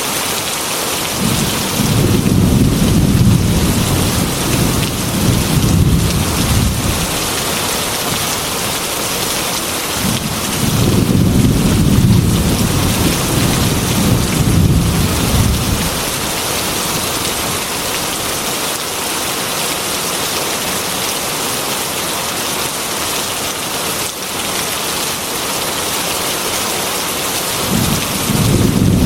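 Heavy rain falling steadily, with low thunder rumbling twice, each roll lasting about six seconds, and a third roll starting near the end.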